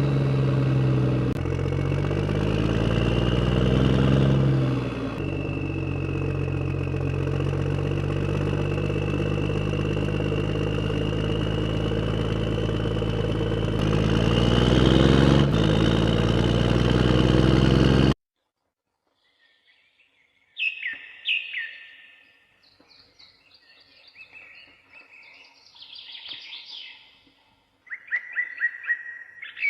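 An engine running with a low, steady note that rises and falls in pitch a few times, cutting off abruptly about eighteen seconds in. After a brief silence, birds chirp.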